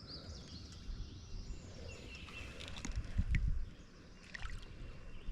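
Quiet river ambience: a bird chirps near the start, and there are a few clicks and low knocks and rumbles around the middle, typical of water and handling against a kayak.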